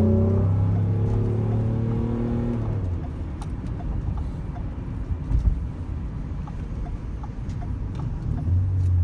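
Ford Edge engine and exhaust heard from inside the cab: a loud, steady low drone for the first three seconds, then dropping away to road and tyre rumble. The drone comes back briefly near the end.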